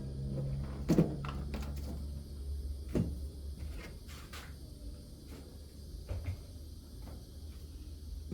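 Scattered knocks and clunks of parts being handled and pulled out of a car's interior, the loudest about a second in and again about three seconds in, over a low steady rumble.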